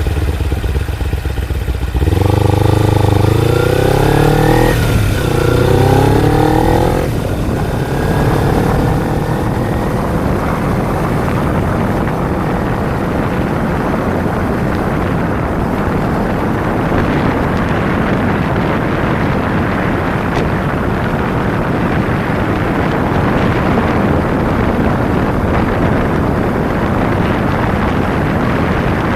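Kawasaki Ninja 250's parallel-twin engine accelerating about two seconds in, its pitch rising, dropping at a gear change and rising again. From about eight seconds on, wind rushes over the microphone at cruising speed and largely covers the engine.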